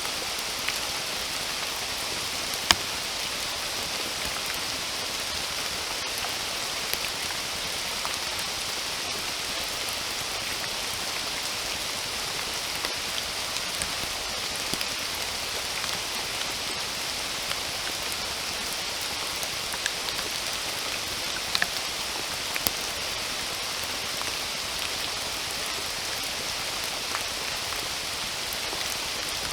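Steady rain falling in a forest, a constant hiss with individual drops ticking and plopping sharply here and there, one loud drop about three seconds in.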